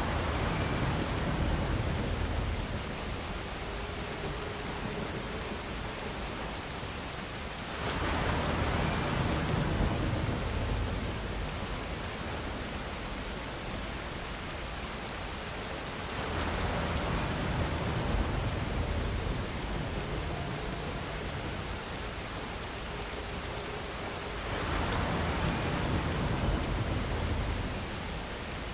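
Steady rain with a low rumble of distant thunder swelling up and fading about every eight seconds, four times.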